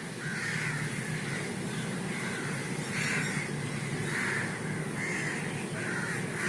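Crows cawing over and over, short harsh calls coming about once a second, some overlapping as from several birds.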